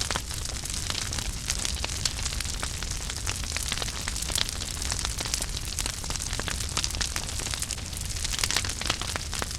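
Wood fire crackling in a fireplace: frequent small, irregular pops and snaps over a steady hiss and low rumble of the flames.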